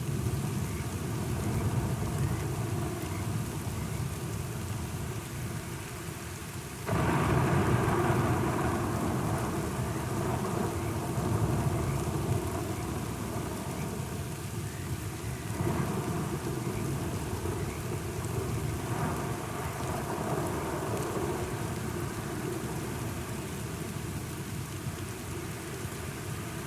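Thunderstorm: steady rain with rolling thunder. The storm swells suddenly louder about seven seconds in, and again past the middle.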